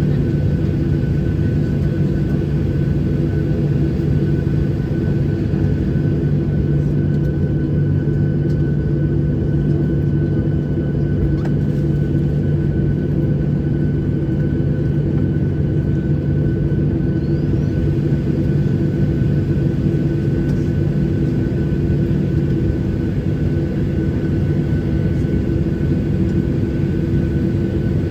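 Boeing 737-800's CFM56 jet engines running steadily, heard inside the passenger cabin: a constant low rumble with a thin steady whine above it and no change in power.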